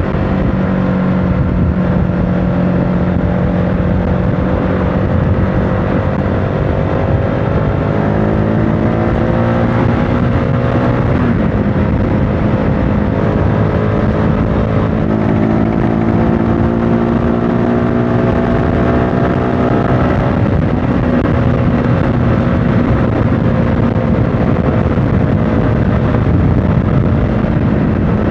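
CFMOTO motorcycle engine running while riding, its pitch climbing slowly and dropping back twice, about a third and two-thirds of the way through, over a steady rush of wind and road noise.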